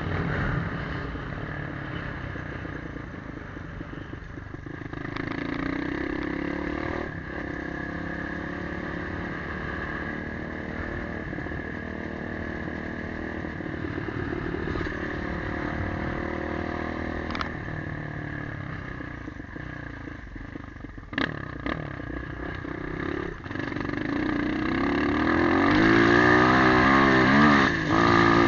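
Motorcycle engine running as the bike is ridden, holding a fairly steady pace and then getting louder and rising in pitch near the end as it accelerates.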